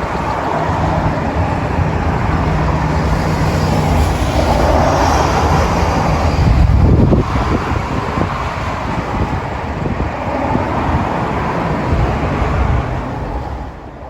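Steady outdoor background noise, a low rumble with hiss, loudest about seven seconds in and fading out near the end.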